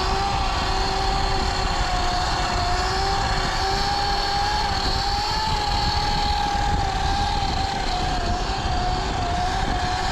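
Sur-Ron electric dirt bike riding along: the electric motor's steady whine, wavering a little in pitch with speed, over wind buffeting the microphone.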